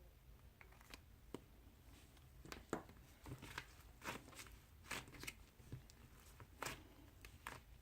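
Faint, irregular clicks and rustles, about a dozen short ones, mostly in the second half, the loudest a sharp click about a third of the way in, over quiet room tone.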